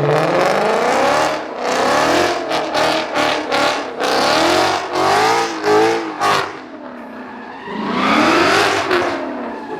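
A car engine revving hard, its pitch climbing and falling again and again, with tyres squealing as the car slides. The revs drop off about seven seconds in, then climb once more near the end.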